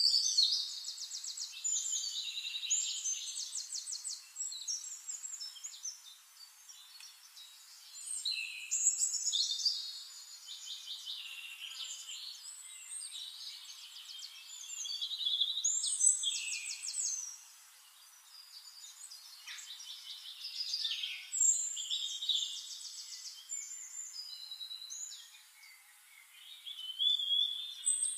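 Songbirds singing: bursts of fast trills and whistled phrases, each a few seconds long, with short pauses between them.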